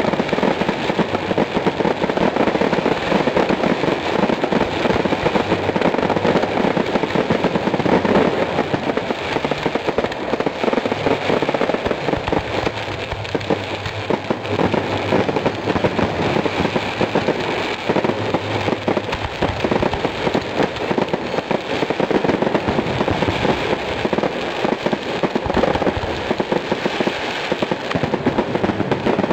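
Fireworks display going off in a loud, unbroken barrage, with many shell bursts overlapping so closely that there are no gaps between the bangs.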